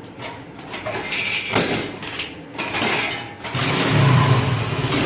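Small 100cc four-stroke petrol engine being started: irregular noise for the first few seconds, then it catches about three and a half seconds in and runs steadily.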